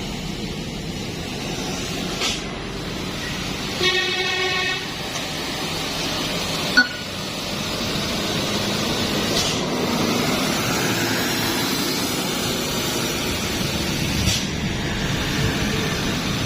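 Road traffic on a mountain road: a vehicle horn gives one short toot about four seconds in, then a heavy truck's engine and tyres grow louder as it comes past.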